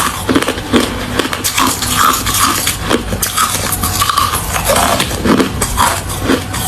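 Ice being bitten and chewed right at the microphone: a dense, irregular run of sharp crunches and cracks as the ice breaks between the teeth.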